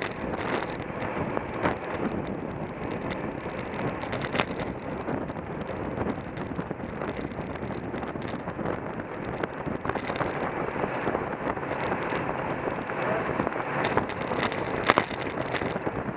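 Wind rushing over the microphone of a camera on a moving racing bicycle, with steady road and drivetrain noise and scattered sharp knocks and clicks.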